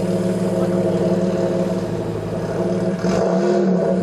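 A car engine running steadily, with a brief rise and fall in pitch about three seconds in.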